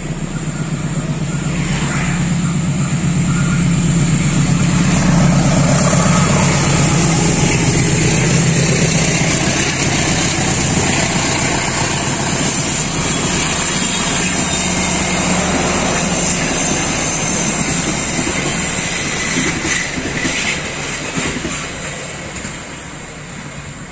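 A diesel-hauled passenger train passing close by. The locomotive's engine drone builds to its loudest about five seconds in. Then the coaches' wheels roll steadily past on the rails, fading away near the end.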